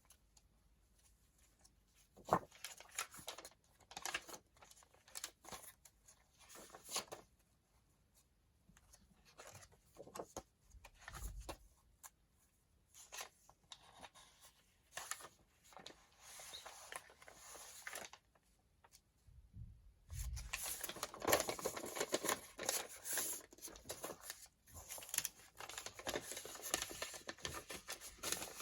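Sheets of paper being handled and shuffled: irregular rustling and light taps, sparse at first and busier and louder for the last third.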